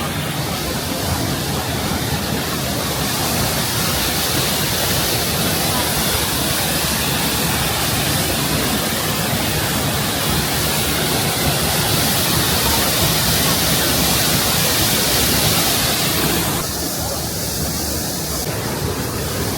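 Waterfall's steady rush of falling water, loud and even throughout, softening slightly near the end.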